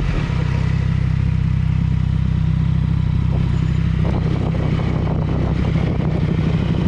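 Yamaha MT-09 Tracer's three-cylinder engine with an Akrapovic exhaust, running steadily at an even engine speed with no revving.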